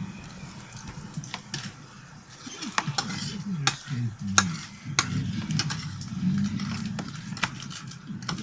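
Fluffy slime being stirred and worked by hand in a container, with a dozen or so sharp clicks and taps of the mixing utensil against the container's side.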